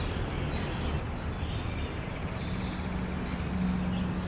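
Steady high-pitched insect trilling, like crickets. A low steady hum comes in about halfway through.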